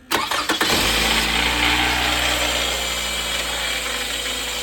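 Toyota Camry 2.5-litre 2AR-FE four-cylinder engine cranking and catching, then running steadily with a rattle. The rattle appears on the first start after the engine has sat for hours, and the owner had first put it down to the water pump.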